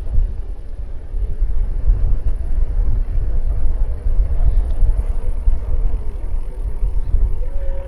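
Wind buffeting an action camera's microphone during a bike ride: a loud, gusty low rumble that rises and falls without a break.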